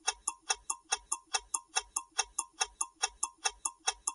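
Countdown timer sound effect: a clock ticking quickly and evenly, about four to five ticks a second.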